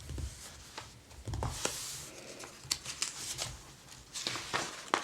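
Stiff, glossy catalog pages being handled: soft paper rustles with scattered small clicks and taps, and a brief swish about a second and a half in.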